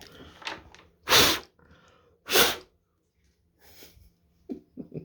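Two short, loud bursts of forcefully expelled breath, about a second apart, with faint handling noise around them.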